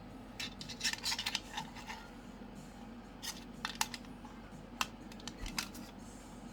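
Cockatoo's beak biting and picking at a plastic toy: a quick run of sharp clicks and snips in the first two seconds, then single clicks every second or so.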